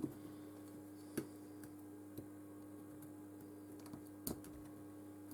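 A few sharp, isolated small clicks and taps of precision tools on a smartphone's screws and frame, about one a second or less, over a steady low hum.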